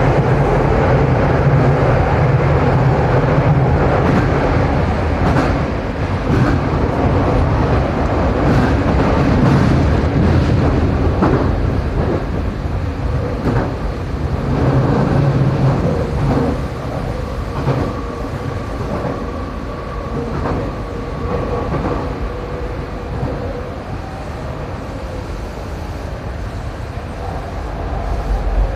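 Tokyo Metro 7000 series electric train running between stations, heard from inside the car: a steady rumble of wheels on rail with scattered clicks over rail joints and a faint steady whine.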